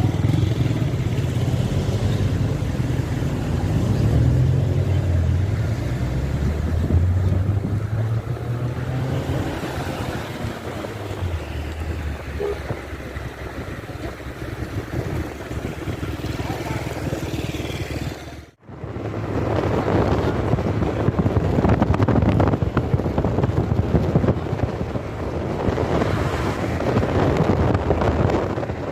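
A motor vehicle's low engine rumble with road and wind noise. About two-thirds through it cuts off abruptly, and a louder, even rushing of wind on the microphone follows.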